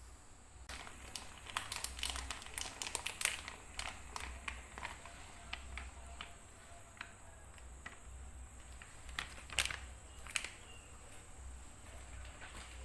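Handling noises: a run of light clicks and taps with some crinkling, busiest in the first few seconds and again in a short flurry near the end.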